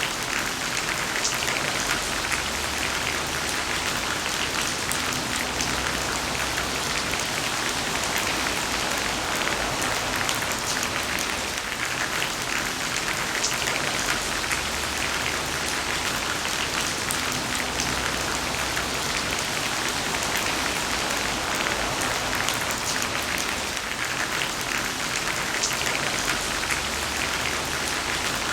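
Heavy rain falling steadily: a dense, even hiss of countless drops with fine ticks of individual drops through it.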